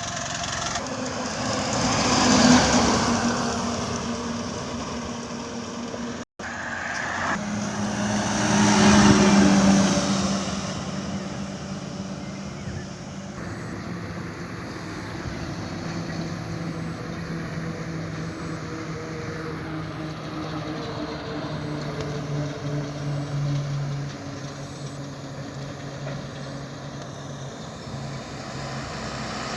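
Road vehicles, likely trucks, passing close by: two pass-bys about two and nine seconds in, each swelling to a peak and fading. After them comes a steady engine drone.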